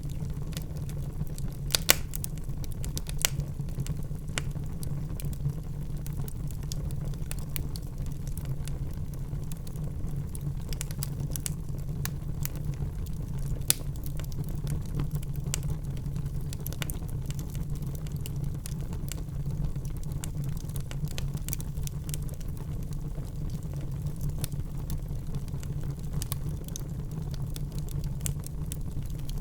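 Logs burning in a fireplace, crackling: a steady low rumble of flames with scattered sharp pops and crackles. The loudest pops come about two seconds in and again near the middle.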